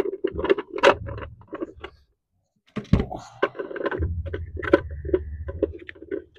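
A hubcap being handled and pressed onto a steel truck wheel: a run of short clicks, taps and knocks, broken by a brief gap of silence, with a low rumble under the later part.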